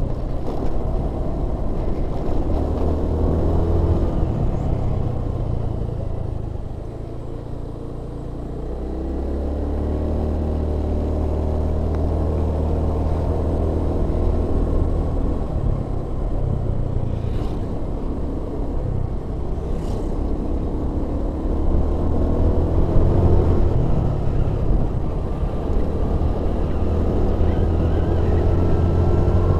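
Vehicle engine running steadily with road noise, its note dropping and easing off about seven seconds in, then building again and rising and falling with the throttle.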